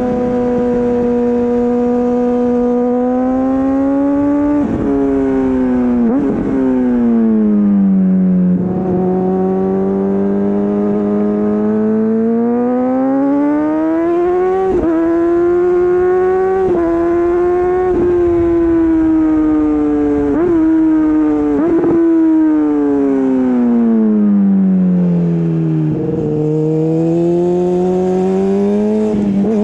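Honda CBR600RR inline-four with an Akrapovič exhaust being ridden, its engine note climbing and falling over several seconds as the throttle opens and closes. About nine short sharp breaks cut into the note, typical of gear changes, over a light rush of wind.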